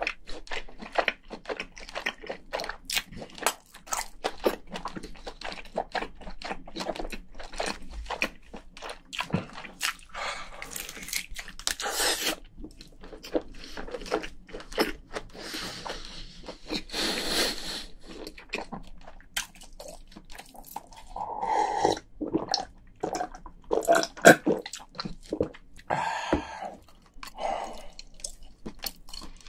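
Wet chewing and lip smacks with crunches from eating cooked crayfish tail meat, as a dense run of short clicks.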